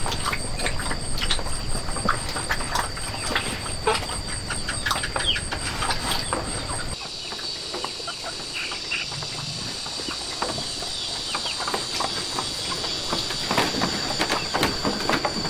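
Farmyard fowl calling in many short clucks and chirps over a steady high-pitched insect drone. The low background rumble drops out suddenly about seven seconds in.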